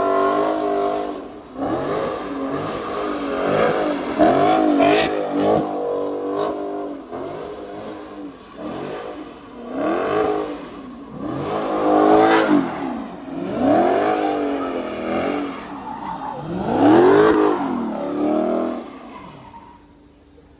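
Car engine revved hard again and again, its pitch climbing and falling back about every two seconds, then dropping away near the end.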